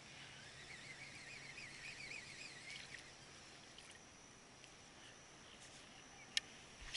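A faint bird call, a wavering trill that rises and falls quickly, for the first few seconds, then a single sharp click near the end.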